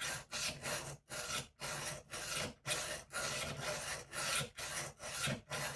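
Rolling knife sharpener's coarse abrasive disc rolled back and forth along a kitchen knife's edge, rasping at about two strokes a second with short breaks between strokes.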